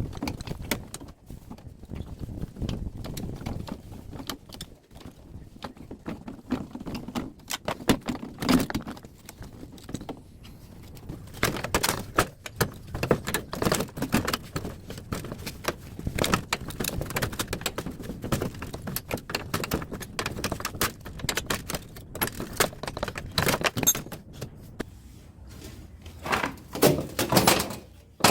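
Metal parts of a scrapped air-conditioner outdoor unit clanking, clinking and knocking irregularly as it is taken apart by hand, with a run of louder clanks near the end.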